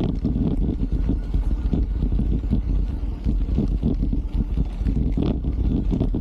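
Wind rumbling on the microphone of a mountain bike in motion, with irregular knocks and rattles from the bike over the trail.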